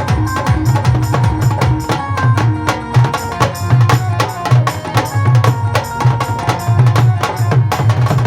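Live band playing an instrumental passage at a sound check: drums and hand percussion keep a fast, steady beat over a bass line and sustained melodic notes.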